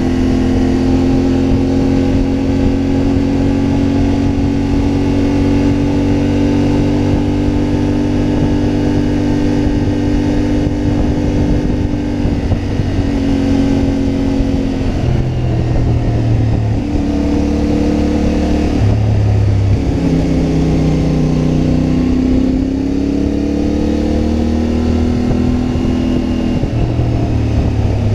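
CFMoto 450MT's parallel-twin engine under way, heard from the rider's position. It holds a steady pitch for about the first twelve seconds, then rises and drops in steps several times as the throttle and gears change.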